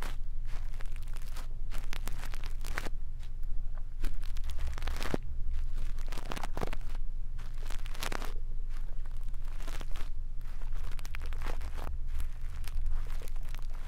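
Brush bristles stroking and scratching against the microphone in ASMR ear cleaning, a run of uneven crackly, rustling strokes over a steady low hum.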